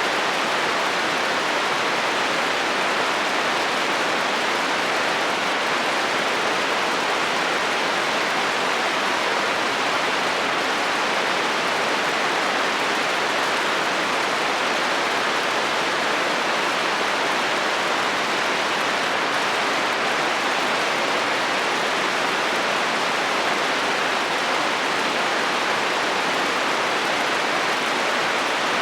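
Steady heavy rain drumming on a metal roof, an even hiss with no thunder.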